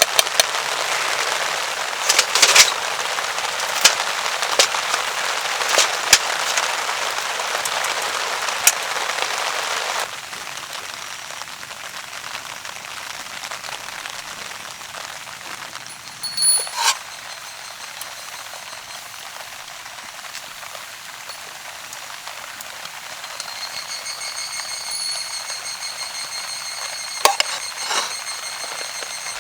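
Rain pattering on a camping tarp, with heavier drops striking sharply. About ten seconds in it drops to softer, quieter rain. Near the end a high steady tone sounds for a few seconds.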